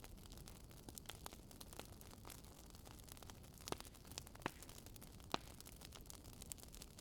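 Wood fire crackling in a fireplace: a scatter of small, irregular pops, with three sharper ones around the middle, over a faint low rumble of burning logs.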